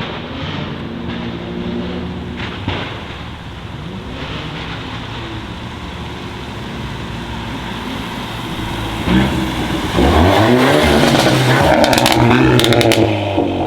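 Modified performance car engines idling, then one car accelerating hard with a loud engine note rising for about three seconds. A few sharp cracks come near the end before it fades.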